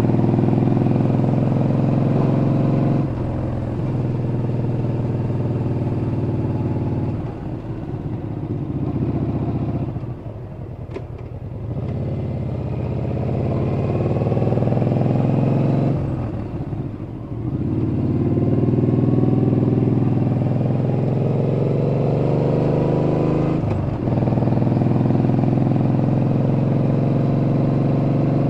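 Yamaha Bolt's air-cooled V-twin engine running under way. The engine note drops several times as the throttle is rolled off and comes back as it pulls again.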